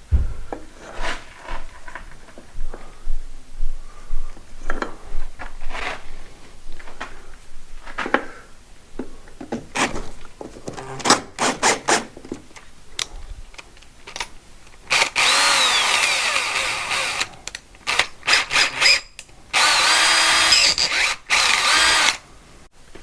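Handheld power tool cutting away old damp-proof course. About fifteen seconds of scattered knocks and scrapes come first, then the tool's motor runs twice, a couple of seconds each time, its pitch rising and falling as it spins up and cuts. The second run cuts off suddenly.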